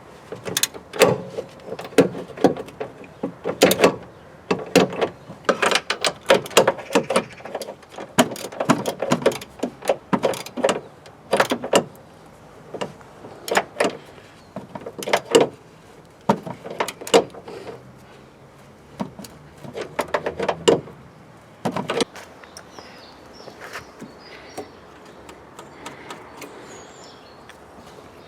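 Irregular knocks, clanks and quick runs of clicks from hand work on car parts, dying down to a few scattered clicks for the last several seconds.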